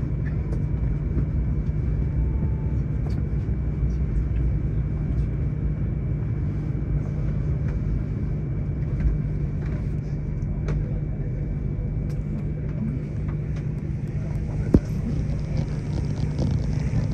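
Cabin noise inside a high-speed train pulling into a station: a steady low rumble with a thin high whine over it. A single sharp knock sounds about fifteen seconds in.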